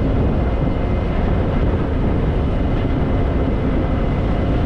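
Harley-Davidson Fat Boy's V-twin engine running steadily while riding, with wind rushing over the rider's microphone.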